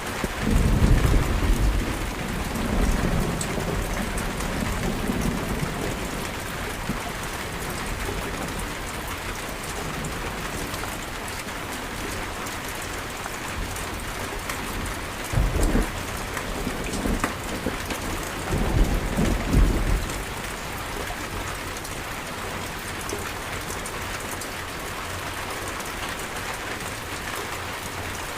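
Steady rain falling in a thunderstorm, an even hiss throughout. Thunder rolls in the first few seconds, then comes a short crack a little past the middle and a longer rumble a few seconds after it.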